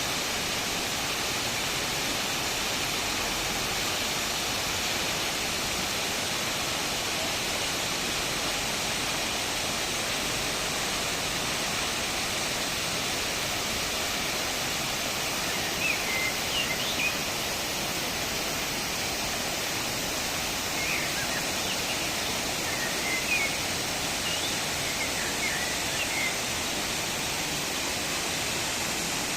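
Large waterfall rushing steadily as an even wash of noise. A few short high chirps come about halfway through and again a little later.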